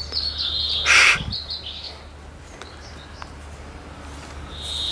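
Small birds chirping, with one held whistled note near the end. A short scratchy rustle with a soft knock comes about a second in.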